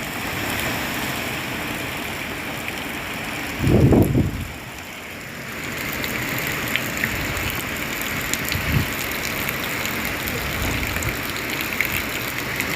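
Hurricane rain and wind, a steady heavy hiss of rain, with a loud low buffeting about four seconds in and a smaller one near nine seconds.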